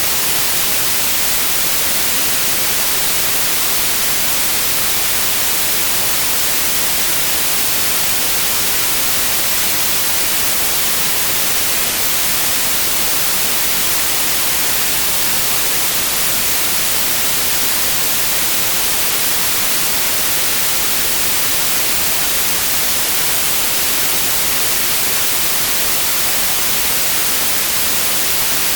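Steady synthetic white noise: an even, unbroken hiss, brightest in the highs, with no change in level.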